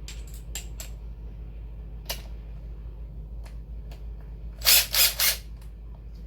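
Metal hand tools such as sockets and a socket wrench being handled and fitted together: a few light clicks, then three loud clacks in quick succession about five seconds in, over a steady low hum.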